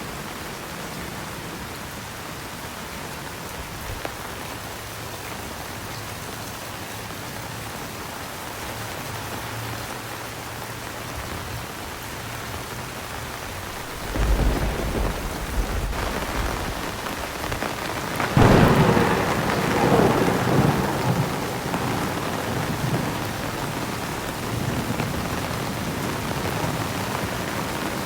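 Steady heavy rain, then thunder: a sudden deep rumble about halfway through, followed a few seconds later by a louder crack that rolls on and slowly fades under the rain.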